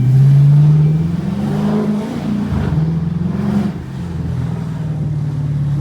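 2012 Dodge Charger R/T's 5.7-litre Hemi V8 through a straight-piped exhaust with the resonator and mid-muffler deleted, catalytic converters kept. The car is driving, and the revs climb and fall back twice before holding steady.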